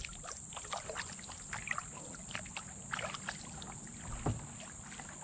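Kayak paddling: the paddle blades dipping and pulling through the water, with irregular small splashes and drips. A single louder thump comes about four seconds in.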